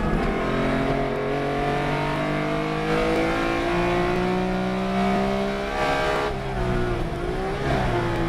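Race car engine at full throttle, its pitch climbing steadily for about six seconds. Then it lifts off, and the revs drop and fall away near the end as the car slows for a corner.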